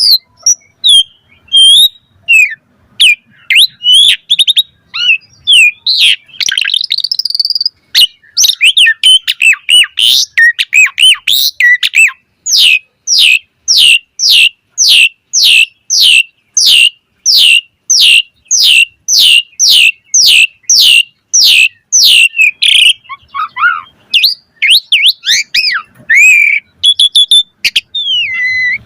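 Asian pied starling (jalak suren) singing loudly: varied whistles and chirps, then a long run of quick, evenly repeated downward-sweeping whistled notes, about three a second, through the middle, before varied phrases return near the end.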